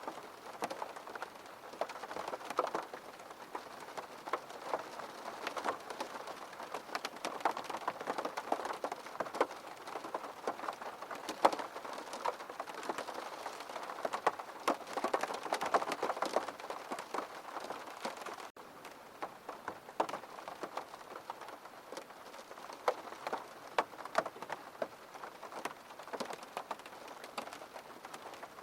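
Steady rain, with many individual drops ticking close by on a surface. There is a brief break about two-thirds of the way through, after which the rain is slightly quieter.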